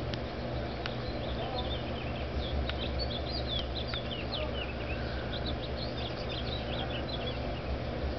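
Small birds twittering in a rapid run of short, high chirps, over a steady low hum.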